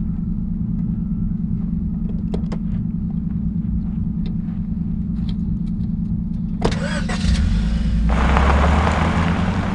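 A few light clicks and knocks of handling at the car, over a steady low hum. Near the end a click is followed by a car engine being started with the key: it catches and revs up, then settles.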